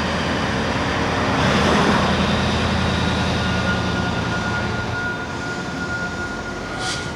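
A railway locomotive running close by: a steady low hum that swells about a second and a half in and eases off after about five seconds, with a short hiss near the end.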